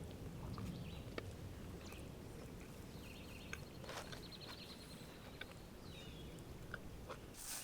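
Faint crunching and chewing of a hard-shell taco bowl being eaten, with scattered small crunches. Faint bird calls sound in the background.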